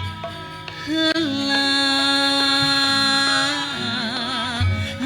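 Singing with gamelan accompaniment: after a short break the voice comes in about a second in and holds one long note, which wavers with vibrato near the end. Low drum strokes sound near the start and again near the end.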